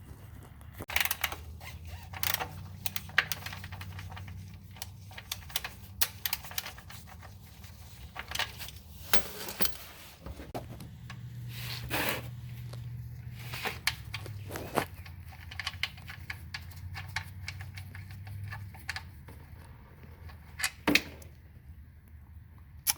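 Socket wrench clicking and tools knocking on metal as the 15 mm engine oil drain bolt is worked loose for an oil change: irregular sharp clicks, a few louder clanks, over a low steady hum.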